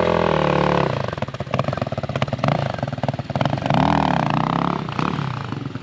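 Dirt bike engine revving hard as the rider tries a wheelie: the pitch is high at the start and drops back, the engine runs rough and choppy, then it revs up and back down again about four seconds in.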